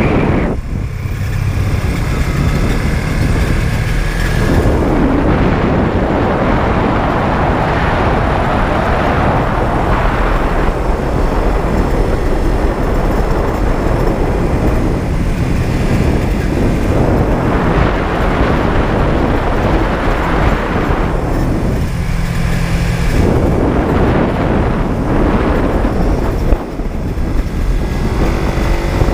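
Honda CB125T's 125 cc parallel-twin engine running steadily with the motorcycle under way, mixed with rushing wind. The engine note eases back briefly twice, once near the start and once about two-thirds of the way through.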